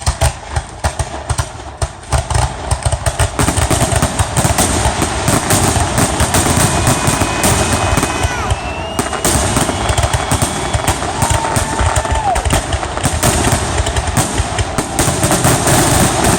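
A fireworks finale barrage: dense, rapid bangs and crackles that begin all at once and run on without a break. A few thin whistling tones sound over them about halfway through.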